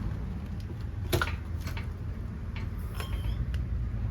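A few sharp metallic clinks and clanks of tools or parts being handled, the loudest about a second in, over a low steady rumble.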